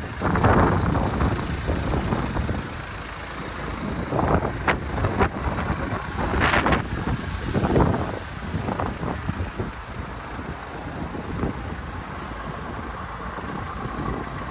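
A motor vehicle running, with wind buffeting the microphone in uneven gusts and several brief louder surges.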